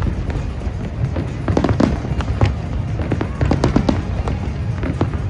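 Fireworks going off in quick succession: many sharp bangs and crackles over a continuous low rumble, with music playing underneath.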